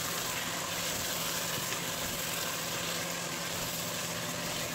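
Sorrel leaves frying in hot oil in a pot as they are stirred with a wooden spoon: a steady sizzling hiss over a steady low hum.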